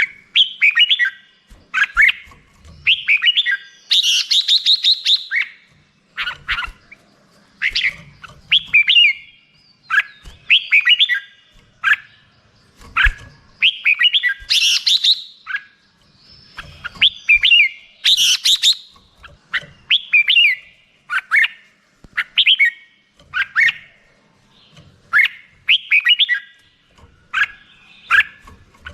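Red-whiskered bulbul singing: short phrases of quick rising and falling whistled notes, repeated every second or two with brief pauses between them.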